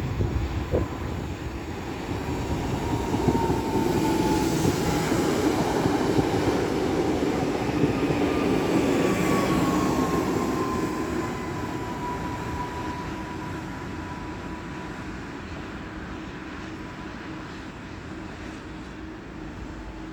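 A train passing along the station tracks, growing louder over the first few seconds and then slowly fading. A thin high tone slides down in pitch as it goes by.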